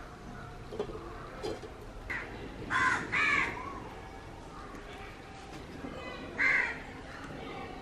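A bird calling three times: two calls close together about three seconds in, and one more near the end.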